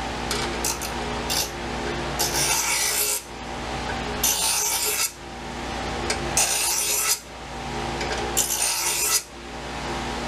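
Steel knife blade scraped by hand against an abrasive in slow back-and-forth strokes: two short strokes, then four long hissing strokes about two seconds apart, working nicks out of the edge. A steady hum runs underneath.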